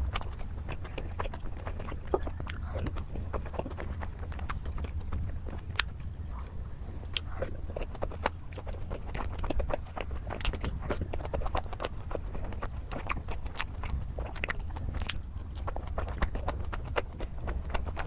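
Close-miked eating sounds: a person biting and chewing food, with many short irregular clicks and smacks over a steady low hum.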